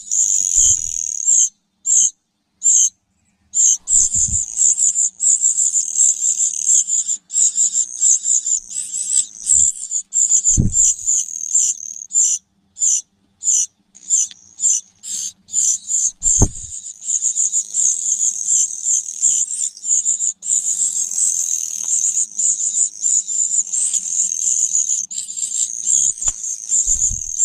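A kedasih cuckoo chick begging with a rapid, nearly continuous stream of very high, thin chirps, broken by short pauses: the call of a hungry chick asking to be fed. A few dull thumps sound now and then.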